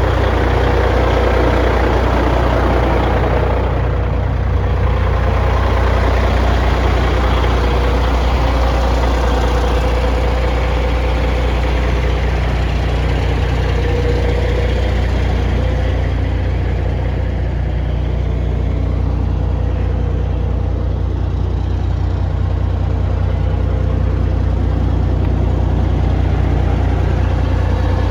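Caterpillar diesel engine of a 1995 Ford Aeromax truck idling steadily, with a deep even hum.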